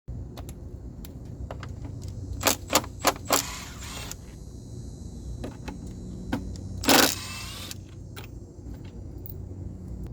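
A series of sharp clicks and knocks, with two short rushes of noise about three and a half and seven seconds in, the second the loudest, over a low steady hum.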